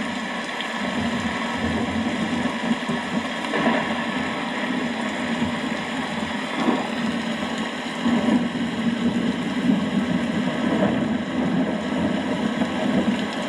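Steady rain falling, with a low rumble of distant thunder underneath that swells a little now and then.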